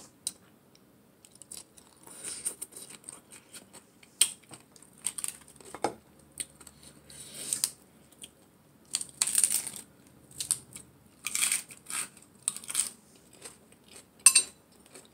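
Close-up eating sounds: a person chewing and crunching shredded carrot salad with lettuce, in short irregular wet smacks and crunches every second or so. One sharp clink stands out near the end.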